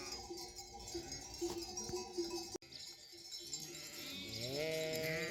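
Sheep bells clinking in a repeating pattern, then a sheep giving one long bleat that rises in pitch near the end. There is a brief abrupt break about halfway.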